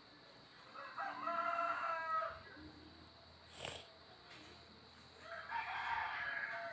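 A rooster crowing twice, each crow a long steady call. There is a short click between the two crows.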